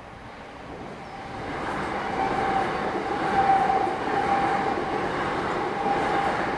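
Passenger train passing over a level crossing. Its noise builds over the first two seconds, then holds steady, with a steady tone running through it.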